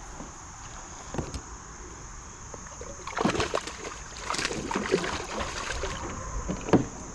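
Water splashing and sloshing in irregular bursts from about three seconds in, as a hooked bass thrashes at the surface while it is landed. A sharp knock comes near the end.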